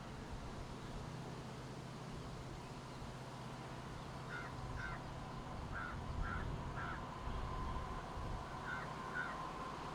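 A bird calling in short notes, seven in all, in twos and threes from about four seconds in, over a faint steady low hum.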